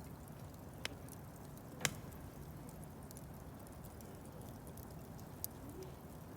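Wood bonfire burning: a low steady rush of flames with scattered faint crackles and three sharp pops, the loudest about two seconds in.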